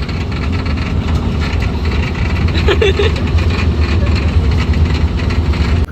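Steady low rumble of a vehicle on the move, with a brief voice about three seconds in; it cuts off suddenly at the end.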